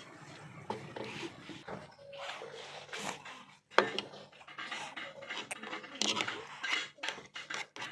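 A baby's breathy, panting sounds during spoon-feeding, with several short clicks and knocks of a spoon and dish.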